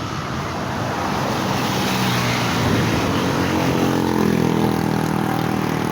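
Heavy truck's diesel engine labouring up a steep climb, its note rising a little about halfway through.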